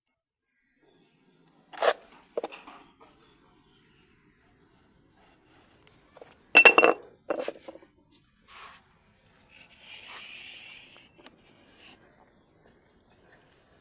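Hard objects clinking and knocking together: a few separate sharp clinks, the loudest about six and a half seconds in, with a brief rustle later.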